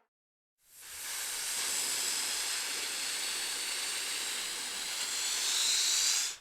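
Steady hiss that fades in about half a second in, carries faint high whistling tones, and cuts off abruptly near the end.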